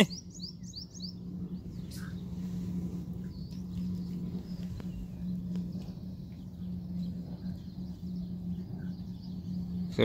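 Birds chirping: a quick run of about six high, rising chirps in the first second, then scattered faint chirps, over a steady low hum.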